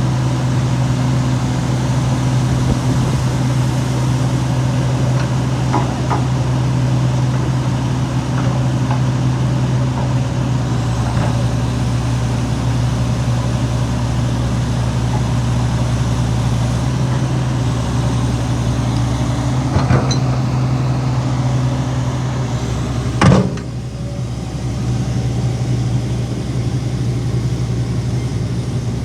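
Heavy earthmoving machine's engine running steadily under work, with a couple of sharp metallic knocks, the louder one about three-quarters of the way through, after which the engine eases slightly.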